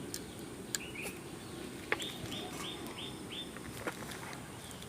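A small bird chirping: a pair of short arched chirps about a second in, then a quick run of about five more, over a steady low hiss with a few sharp clicks.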